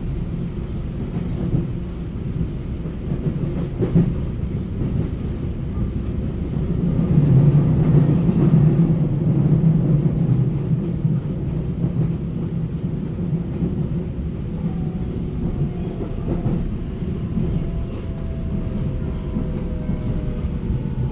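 Taiwan Railway EMU900 electric multiple-unit train running, heard from inside the carriage: a steady low rumble of wheels and running gear that grows louder in the middle. Over the last several seconds a motor whine slides down in pitch.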